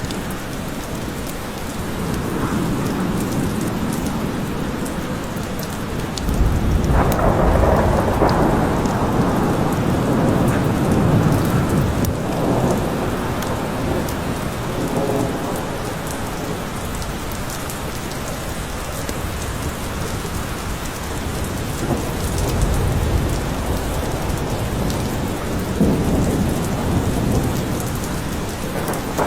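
Steady rain falling in a forest with rolling thunder, its deep rumble swelling up about a quarter of the way in and again near the end.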